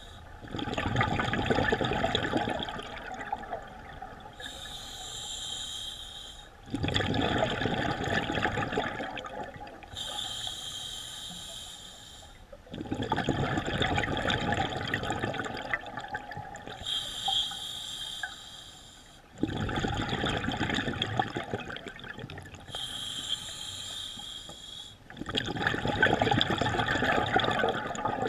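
Scuba diver breathing through a regulator underwater: a short hissing inhale, then a longer, louder rush of exhaled bubbles, repeating about five times.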